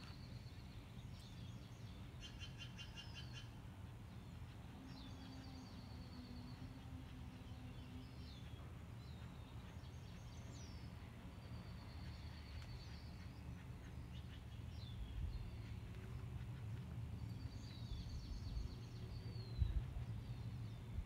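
Faint outdoor ambience: small birds singing in the background, repeated high trills and short down-slurred chirps, over a steady low rumble. A few low bumps come near the end.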